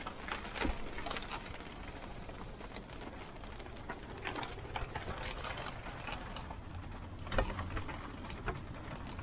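Rain pattering, with irregular drops of varied strength and one sharper knock about seven seconds in.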